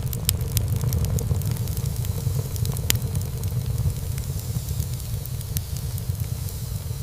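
Wood fire burning in a fireplace: a steady low rumble of flames with frequent small crackles and pops of burning wood, and one sharper pop about three seconds in.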